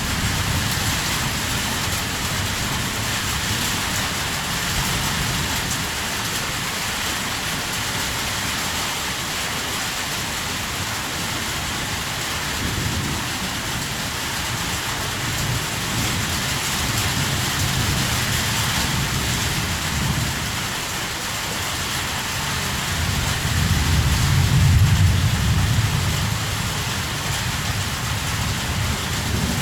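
Heavy rain falling steadily, with a low rumble of thunder that swells and fades about three-quarters of the way through.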